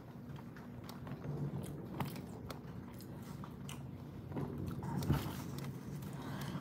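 A person chewing a mouthful of crack chicken with noodles close to the microphone, with scattered small wet clicks of the mouth.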